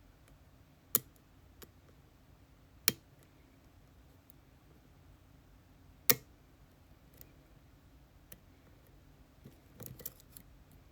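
Sharp small clicks from hands working an ASSA Twin Exclusive lock: three loud single clicks a couple of seconds apart, a few faint ticks, then a quick flurry of light clicks near the end.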